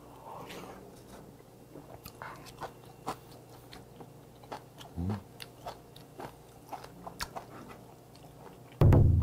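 Close-miked chewing of soft boiled hagfish: wet mouth clicks and smacks, with a short low sound about five seconds in. Near the end a sudden loud low thud that rings on.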